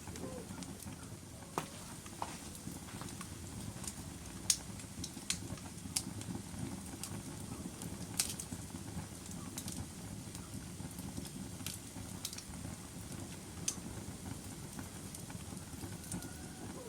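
Log fire crackling: irregular sharp pops and snaps from the burning wood over a low, steady rumble of the flames.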